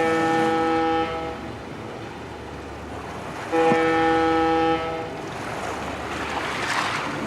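Two long, steady horn-like tones, each a little over a second, with a pause of about two and a half seconds between them, over a low steady background. Near the end a hiss swells up.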